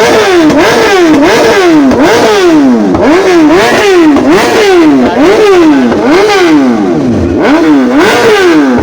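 Superbike engine revved over and over, its pitch climbing and dropping sharply a little faster than once a second.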